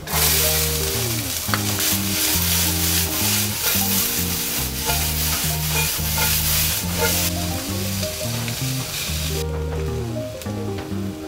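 Chopped onion sizzling loudly as it hits the hot frying pan with garlic, then frying as it is tossed and stirred; the sizzle dies down about nine seconds in. Background music plays underneath.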